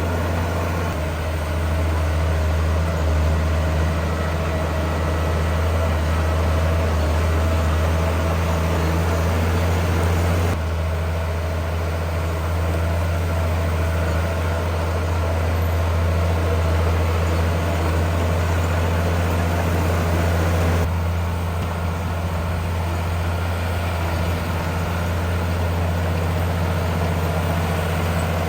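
Heavy diesel engine of earthmoving machinery running steadily with a deep hum, no clatter of stone standing out. The sound jumps abruptly twice, about ten and twenty-one seconds in.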